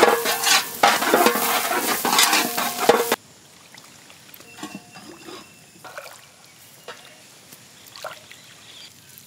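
Shallots, garlic, curry leaves and green chillies sizzling in sesame oil in a large metal pot, stirred with a long paddle that scrapes the pot. About three seconds in, it cuts to faint watery squelching as tamarind is squeezed by hand in a bowl of water.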